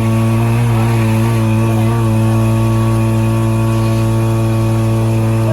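A fire engine's motor running steadily at a constant speed: a loud, even engine drone that holds one low pitch throughout.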